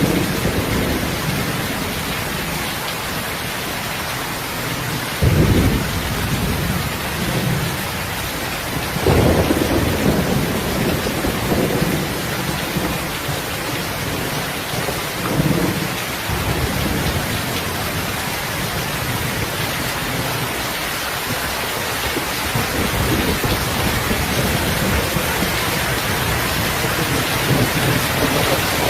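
Steady rain hissing, with low rumbles of thunder rolling in about five seconds in, again around nine to ten seconds, and more faintly near fifteen seconds.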